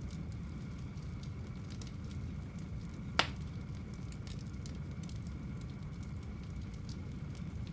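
Fire burning in a home fireplace: a steady low rumble of the flames with scattered small crackles, and one sharper, louder pop about three seconds in.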